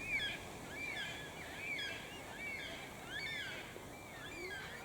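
A distant flock of yellow-tailed black cockatoos calling, many short rising-and-falling calls overlapping one another.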